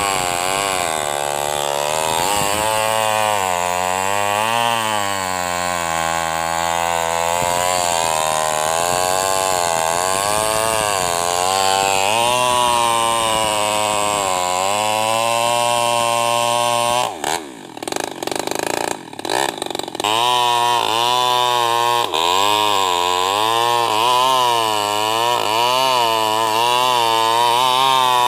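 Small two-stroke chainsaw, a New West NW588, running under load as it rips a sengon log lengthwise, its engine pitch rising and falling as it bogs and recovers in the cut. About two-thirds of the way through the engine drops back briefly with a few knocks, then picks up and cuts on.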